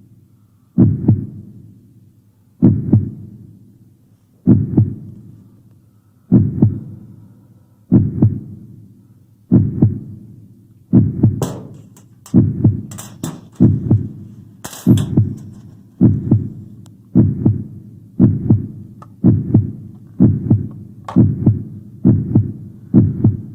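A deep, heartbeat-like thump repeating alone, speeding up steadily from about one every two seconds to nearly two a second. A brief high crackle comes in around the middle.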